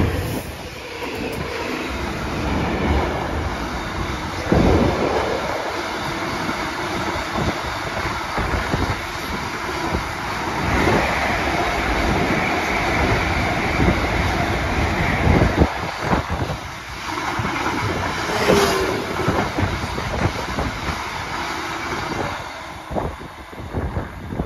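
Freight wagons of a heavy train rolling past at speed, their wheels clattering and clacking over the rail joints. The sound falls away near the end as the last wagons recede.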